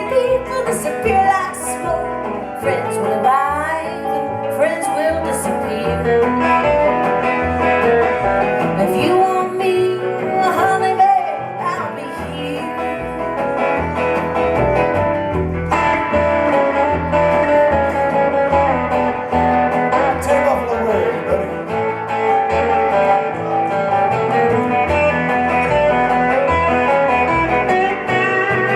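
Live song played on guitar, with a singing voice over a steady bass line.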